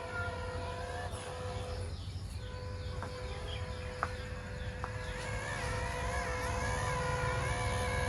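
Small electric motors of radio-controlled off-road cars whining steadily under a low rumble, with a higher wavering whine that comes in about halfway through as the throttle changes, and a few sharp clicks in the middle.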